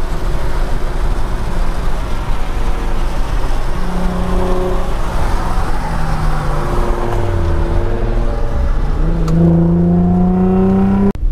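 Infiniti G35's V6 engine running under way, its pitch dipping about two-thirds of the way in and then rising steadily as it accelerates; the sound cuts off suddenly just before the end.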